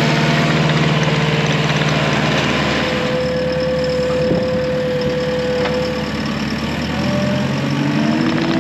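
Farm machine's engine running steadily. A steady whine holds for a few seconds midway, and the engine note shifts and rises near the end.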